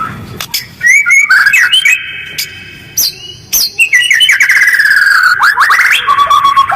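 White-rumped shama (murai batu) singing a fast, harsh song in quick runs of notes with short pauses. It includes a rapid trill that falls in pitch in the middle and a held whistled note near the end.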